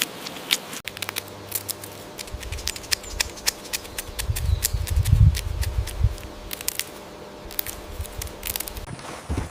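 Rapid, irregular sharp clicks and snips, with a low rumble swelling near the middle.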